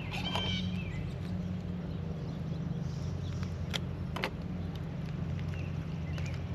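A steady low hum from a running motor or engine, with two sharp clicks about four seconds in.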